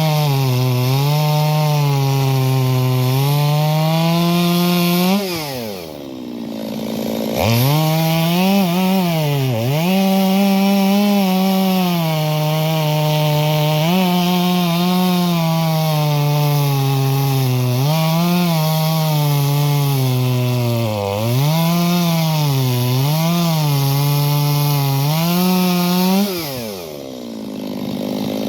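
Stihl MS 250 two-stroke chainsaw running at high revs while cutting wood, its pitch sagging and recovering as the chain bites. Twice, about five seconds in and near the end, the throttle drops to idle and then opens up again.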